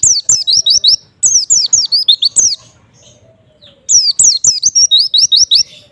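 White-eye (pleci) singing: fast runs of high, sharp, downward-slurred chirps, in two long bursts with a pause of about a second between them.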